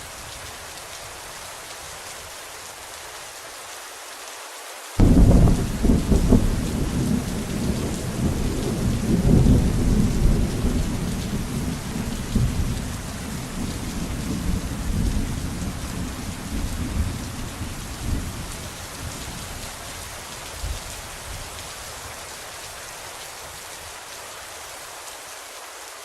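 Steady heavy rain, then about five seconds in a sudden loud thunderclap that breaks into a long low rolling rumble and slowly dies away under the rain.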